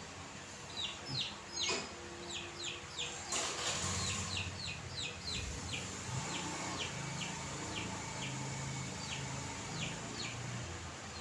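A bird chirping repeatedly, short high notes that slide down in pitch at about two or three a second, thinning out near the end, over a steady low hum.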